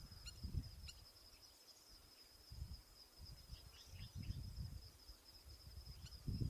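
Faint outdoor ambience at a marsh: low gusty wind rumble, a steady high insect drone, and a few short, distant bird chirps after about three and a half seconds.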